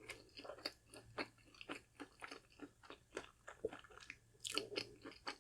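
Close-miked chewing of a crispy fried fish sandwich: soft crunches and wet mouth clicks a few times a second, with a louder cluster of crunches about four and a half seconds in.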